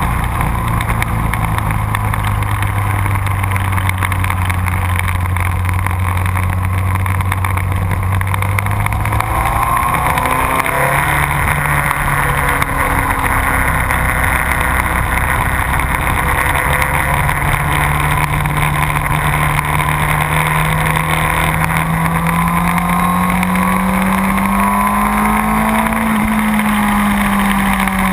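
Motorcycle engine running continuously at track speed. Its pitch holds steady at first, changes about a third of the way in, then climbs gradually through the second half and drops again near the end.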